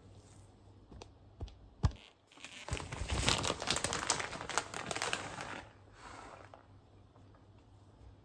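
A few light knocks, then about three seconds of crinkling and crumpling as something is handled and scrunched up, fading out after that.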